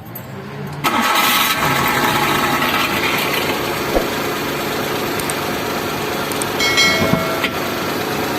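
Vehicle engine starting about a second in, then running steadily, with a brief higher whine near seven seconds.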